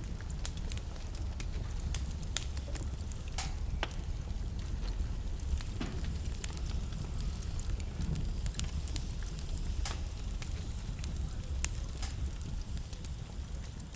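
Wood fire burning in a fireplace: a low steady rumble of flame with frequent sharp crackles and pops from the logs.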